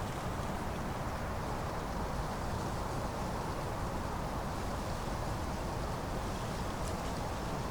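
Steady autumn wind blowing, a low, even rush, with faint brief rustles of leaves now and then.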